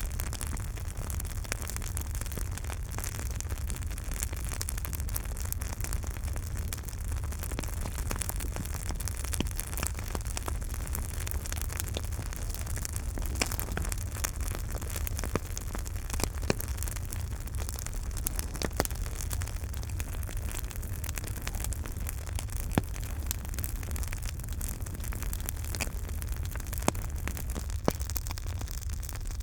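Campfire burning: a steady low rumble and hiss of flames with scattered sharp crackles and pops, a few louder pops in the second half.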